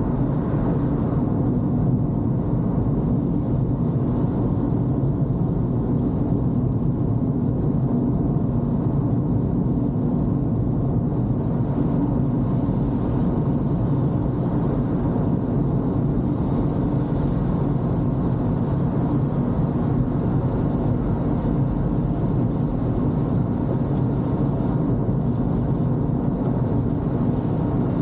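Toyota Corolla driving along, a steady low hum of engine and tyre noise that holds even throughout.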